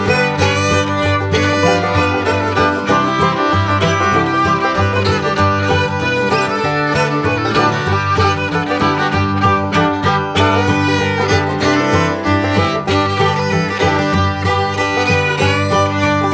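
Background music: an instrumental country or bluegrass tune led by fiddle, with plucked strings and a steady beat.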